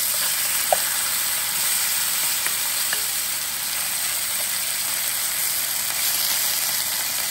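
Prawns sizzling steadily in hot oil in a stainless steel frying pan. This is the sizzle wanted from properly hot oil, with a few light clicks of a metal spoon moving the prawns about.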